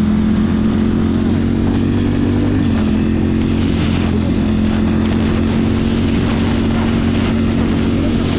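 Ducati motorcycle cruising at steady speed, its engine holding an even note that shifts slightly in pitch about two and a half seconds in, with wind rushing over the microphone.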